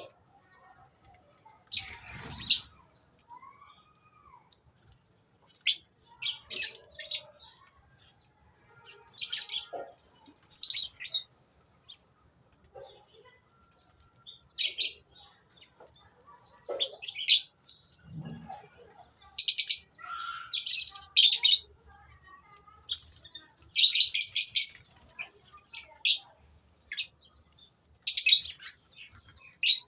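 Lovebirds in a colony chirping: short, shrill bursts of high chirps every second or two, some running several seconds together.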